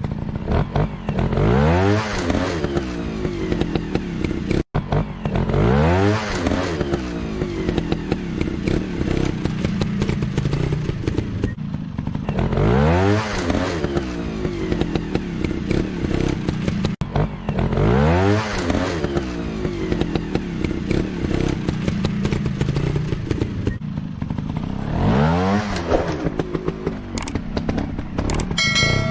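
Motorcycle engine running, revved up and dropping back about five times, a few seconds apart. A few sharp clicks near the end.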